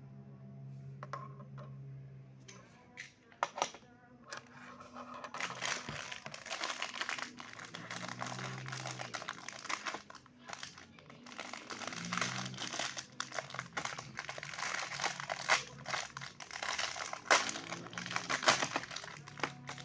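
Packaging crinkling and tearing as a Beyblade toy is unwrapped by hand, a dense run of crackles with sharper snaps, starting about five seconds in.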